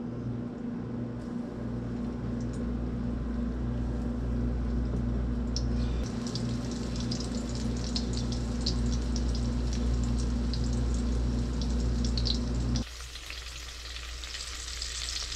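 Breaded coot gizzards frying in hot olive oil in a frying pan. The crackling sizzle picks up about six seconds in as pieces go into the oil, and becomes a dense, steady sizzle near the end.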